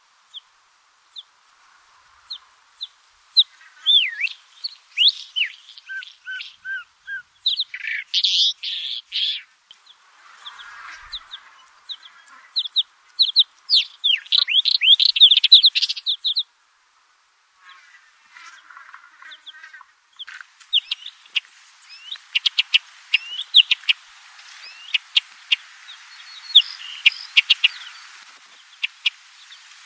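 A small songbird singing: rapid phrases of sharp chirps and quick rising and falling whistles, breaking off briefly about halfway and then resuming in a denser run of sharp notes.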